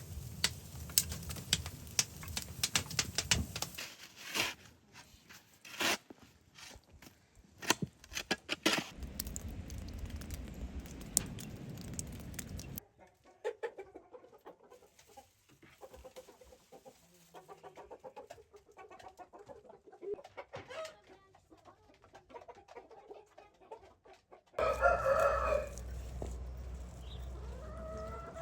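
Domestic chickens clucking, with a rooster crowing loudly once near the end. Through the first half, a run of sharp knocks and clicks.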